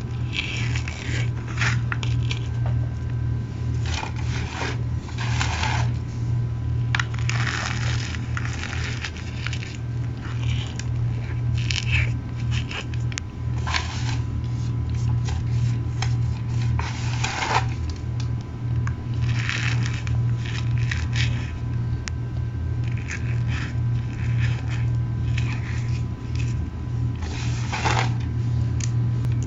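Mini chunks of cornstarch crushed by hand, an irregular run of squeaky crunches and scrapes, over a steady low hum.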